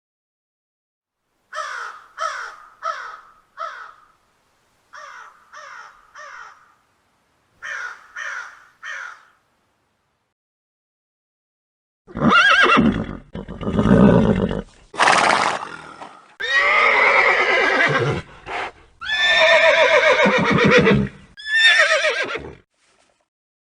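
Horse neighing: three groups of short, quick calls, the middle group quieter, then after a pause a run of long, loud whinnies.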